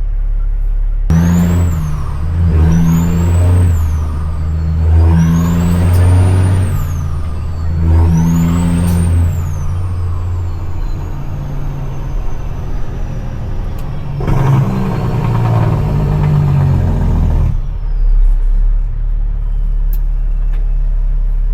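CAT C-15 diesel in a dump truck pulling hard up through the gears of an 18-speed transmission, the turbo whistle climbing and dropping with each shift. Another loud stretch of engine noise comes about two-thirds of the way in.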